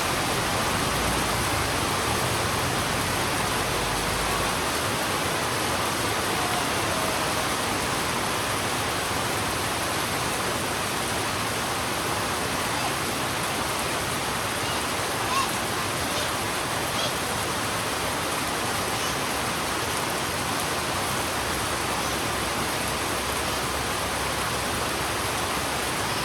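Heavy rain falling steadily on a road: an even, unbroken hiss, with a few faint ticks of drops about fifteen seconds in.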